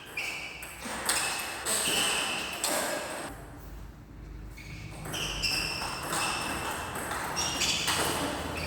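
Sports shoes squeaking in short high chirps on an indoor court floor during a rally, with sharp racket hits now and then.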